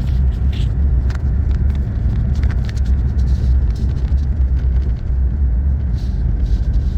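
Vehicle driving on a snow-covered road in four-wheel drive, heard from inside the cabin: a steady low rumble of engine and tyres, with scattered light ticks over it.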